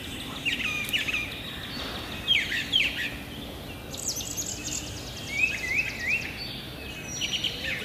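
Songbirds chirping and singing in the background over a steady hiss, with a rapid high trill about four seconds in.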